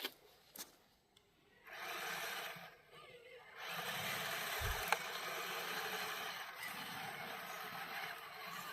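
Radio-controlled scale truck driving: a small electric motor and its gears whirring. It starts about two seconds in, breaks off briefly, then runs steadily from about three and a half seconds in. Two short clicks come before it.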